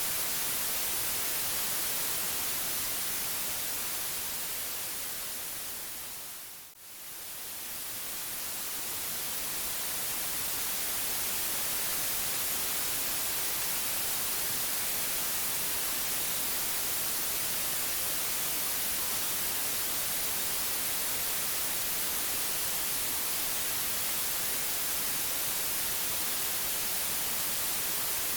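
Steady white noise hiss. About seven seconds in it fades down to a brief dip, then swells back to full level over the next few seconds.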